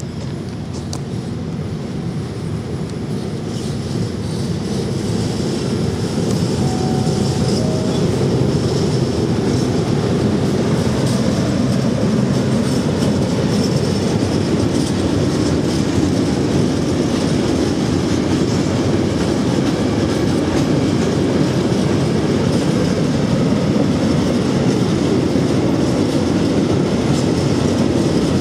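Freight train passing close by: a long rake of open-top freight wagons rolling over the rails with a steady rumble and wheel clatter. The sound builds over the first several seconds as the train draws near, then holds loud.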